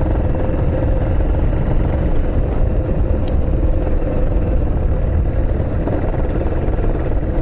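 An engine running steadily: a constant low rumble with an even hum over it.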